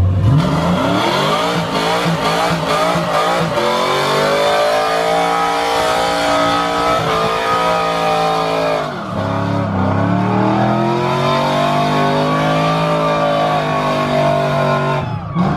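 Car engine revved hard and held at high revs during a burnout, with tire noise underneath. The revs dip sharply about nine seconds in, climb back and hold, then dip again near the end.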